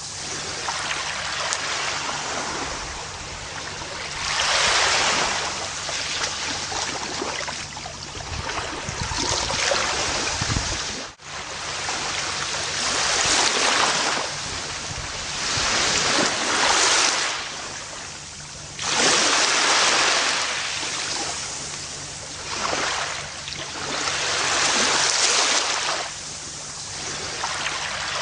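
Gentle ocean waves washing onto a beach, the surf swelling and falling back every three to five seconds, with a brief dropout about eleven seconds in.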